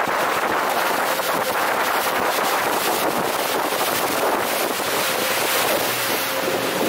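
Fast whitewater rushing and churning around a wooden river longboat running up through rapids, with wind buffeting the microphone. A steady, unbroken wash of noise.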